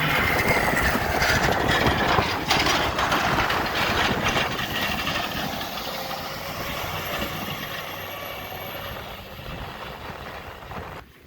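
Heavy vehicle running close by, its engine and road noise slowly fading away as it moves off, then cutting off just before the end.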